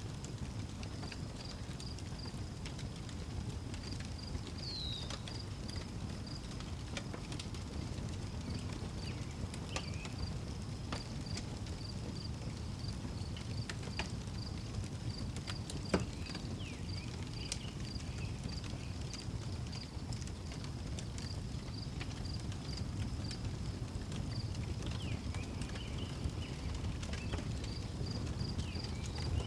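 Outdoor wood fire crackling, with scattered pops and one sharp crack about halfway through, over a steady low rumble. A cricket chirps in a regular high pulse throughout, and a bird gives a few short calls.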